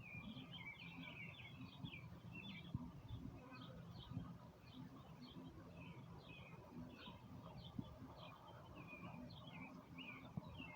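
Faint background birdsong: many short, quick chirps from small birds over a low, steady outdoor rumble.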